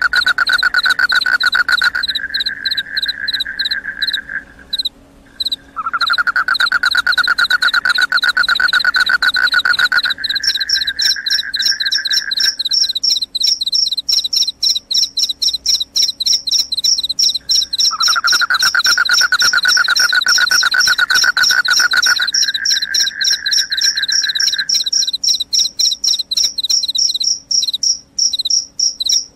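Crickets chirping in fast, evenly pulsed trills: a high chirping runs on steadily, while a lower-pitched trill joins in three stretches of several seconds each and then drops out.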